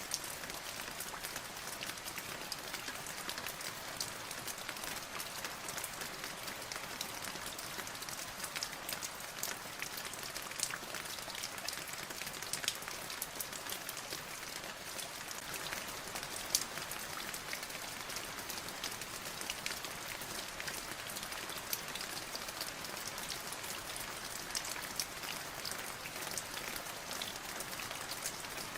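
Steady rain falling, a dense hiss of drops with individual close drops ticking sharply through it, a couple of louder ones about twelve and sixteen seconds in.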